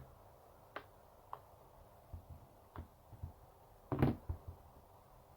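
Small clicks and light taps of hand tools and smartphone parts being handled on a work surface during a phone teardown, with one louder knock about four seconds in.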